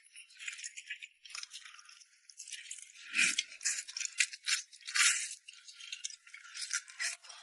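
Close-miked eating sounds from a bowl of rice noodles in red chili oil: a dense run of quick crackly clicks and rustles, loudest around the middle.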